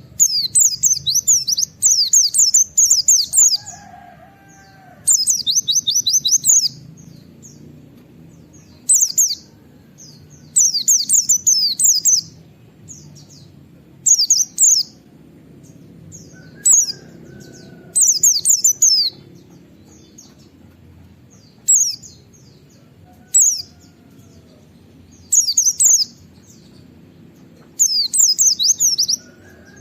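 A white-eye (pleci) singing in repeated bursts of rapid, very high-pitched chattering notes, each burst a second or two long with short pauses between: the fast 'nembak' shooting song.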